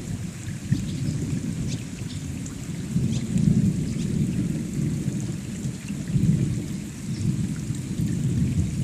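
Rain falling steadily, scattered drops ticking, over a dense low rumble that swells and fades several times; the rain is picking up.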